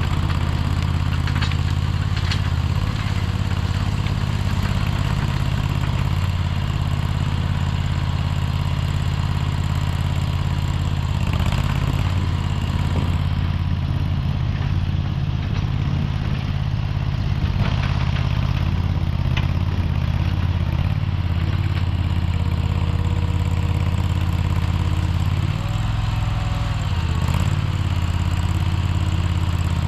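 Mini skid steer's engine idling steadily, with a few light knocks, and its note wavering briefly near the end.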